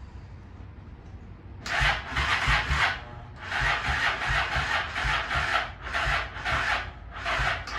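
Honda Shadow 750 ACE V-twin being cranked over by its electric starter, a rhythmic churning at about three strokes a second, in a short try and then a longer one, without the engine catching. The cold engine is reluctant to start on a weak battery.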